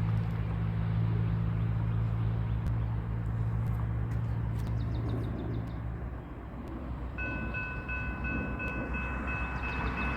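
Train at a railroad crossing: a diesel locomotive's engine hums steadily and fades after about six seconds. About seven seconds in, a grade-crossing warning bell starts ringing.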